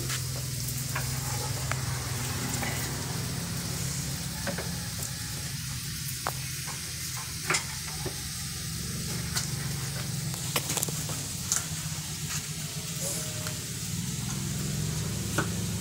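Food frying in a pan with a steady sizzle, and a few sharp knocks scattered through it.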